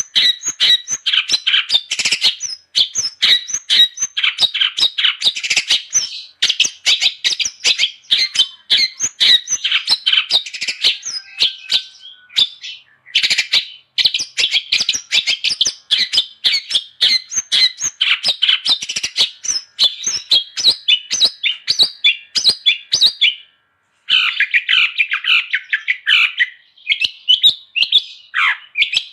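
Long-tailed shrike (cendet) singing a fast, continuous chattering song of short, high notes. It breaks off briefly about halfway through and again near the end.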